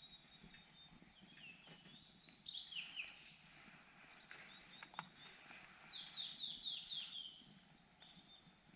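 A small bird calling in runs of quick downward-sliding chirps, once about two seconds in and again about six seconds in, over faint outdoor background. A single sharp click comes about five seconds in.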